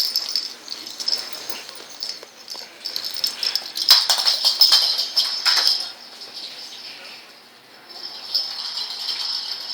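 A cat's toy ball rattling as it is shaken and batted about, in uneven bursts. It is loudest about four to six seconds in, dies down, and rattles again near the end.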